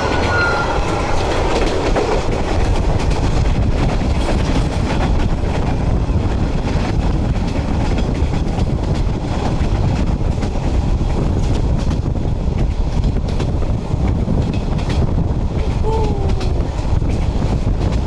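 Passenger train carriage running along the track: a steady loud rumble and rattle with scattered clacks of the wheels over the rails.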